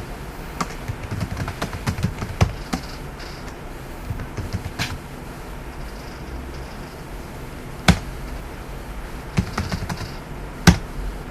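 Computer keyboard typing: irregular key clicks in short runs as a password is entered. Two sharper, louder clicks stand out, one about two-thirds of the way in and one near the end.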